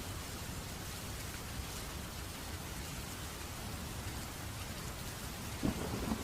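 Steady rain falling. Near the end a low rumble of thunder breaks in suddenly.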